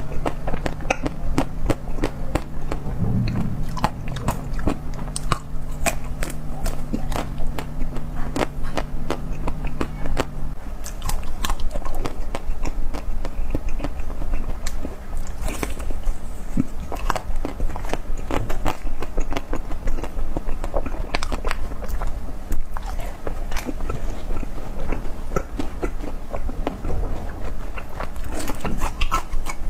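Close-miked eating sounds: crunchy bites and chewing with many rapid, irregular crackles. A low steady hum runs underneath and stops about ten seconds in.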